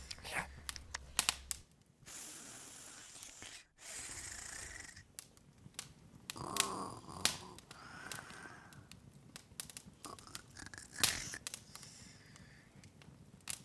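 Open wood fire crackling: irregular sharp pops and snaps over a soft hiss, with a few louder pops, one of them a little past the middle.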